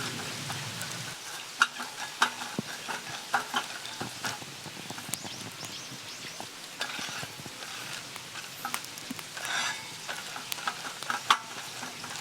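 Monjayaki sizzling on a hot iron griddle, with many sharp clicks and taps scattered throughout.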